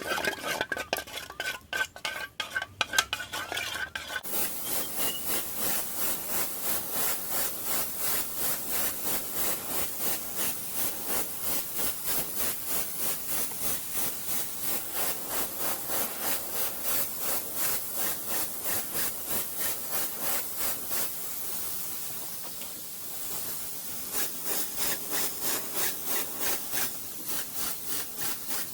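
Irregular crackling for a few seconds, then rhythmic back-and-forth scraping at about two strokes a second, typical of brushing or working over a weld on a steel motorcycle frame.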